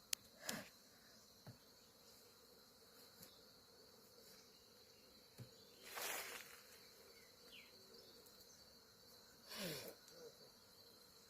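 Faint insect sounds: a steady high-pitched trill under everything, with three brief louder buzzing passes, the last one falling in pitch near the end.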